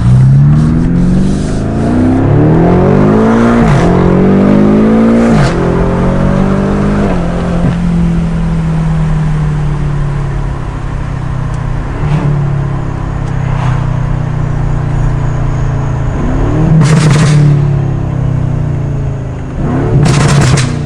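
The twin-turbo V8 of a BMW F90 M5 on a DunnFab catback exhaust accelerating hard. Revs climb steeply twice, with a gear change between the climbs, then the engine runs at steadier revs. Short sharp exhaust pops come off the throttle a few times, twice near the end.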